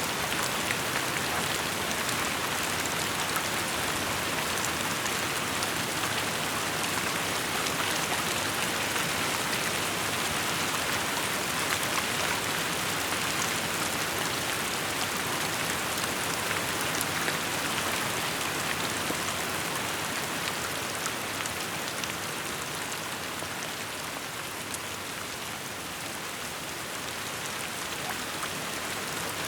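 Steady rainfall: an even hiss of rain on the ground with scattered individual drops ticking, easing off a little past the middle and building again near the end.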